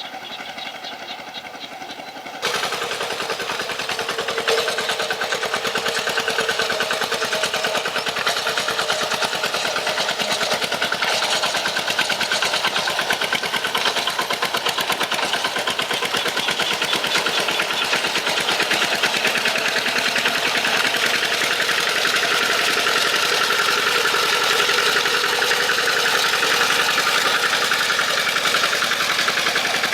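Tractor engine running with a rapid, steady chugging pulse, stepping up in loudness about two and a half seconds in.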